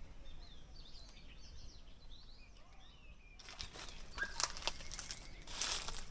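Faint bird chirps, many short quick notes sliding up and down, in the first half. Then footsteps crunching on dry leaf litter start about halfway through, several steps to the end.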